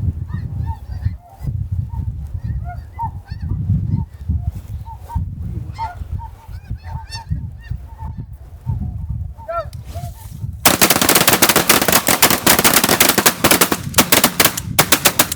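Snow geese honking, many short high calls over a heavy low wind rumble on the microphone. About ten seconds in, several shotguns open fire together in a rapid, overlapping volley that runs on for about five seconds, with the last few shots spaced apart near the end.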